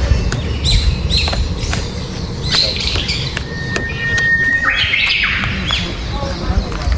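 Birds calling outdoors: repeated short squawks and chirps that sweep in pitch, with a brief steady whistled note near the middle, over a constant low rumble.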